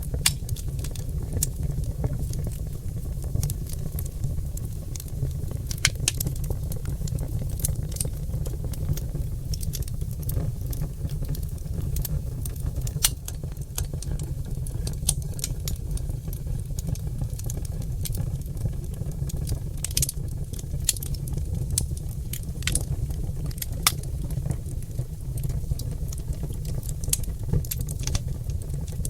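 Oak logs burning in a fireplace, crackling and popping with many sharp, irregular snaps over a steady low rumble.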